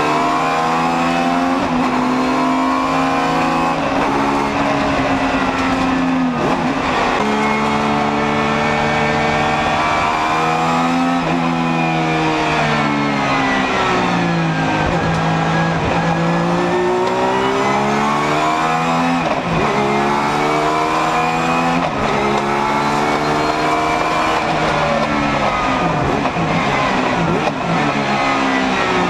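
Alfa Romeo 155 V6 Ti DTM race car's high-revving V6 engine under hard acceleration, its pitch climbing through the revs and dropping sharply at each gear change, then falling and rising again through braking and corners.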